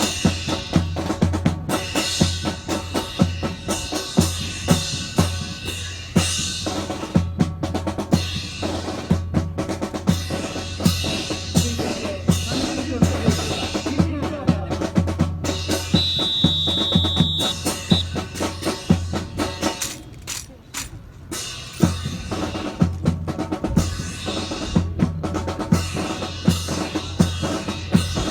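Marching percussion, snare and bass drums, played in a fast steady rhythm to accompany a military drill team. A steady high tone sounds for about two seconds around the middle, and the drumming thins out briefly a few seconds later.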